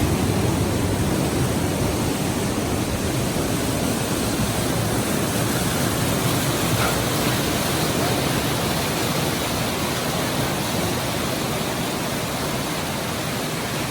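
Simulated flash flood: a large volume of water rushing and crashing through an artificial canyon, a loud, steady roar of water that eases slightly toward the end.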